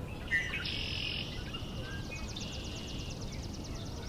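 Wild marsh birdsong: a short buzzy call near the start, then a long, even trill of rapid high notes at about ten a second.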